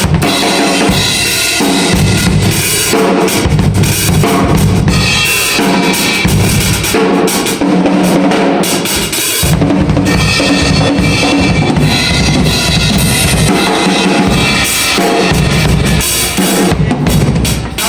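Drum kit played continuously and loudly, with bass drum and snare hits in a dense, driving pattern.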